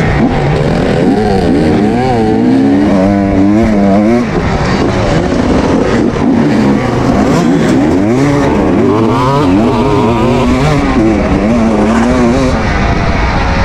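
Kawasaki KX250 dirt bike engine being ridden hard, the revs rising and falling again and again as the rider works the throttle and gears.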